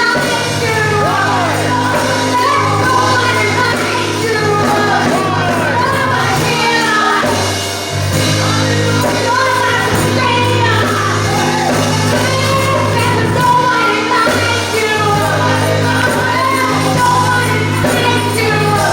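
Church praise team's gospel worship music with singing: voices sliding over sustained low bass notes.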